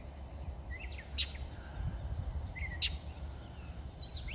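A bird calling while defending its nest from a cat: short chirps and two sharp, loud calls about a second and a half apart, over a low steady rumble.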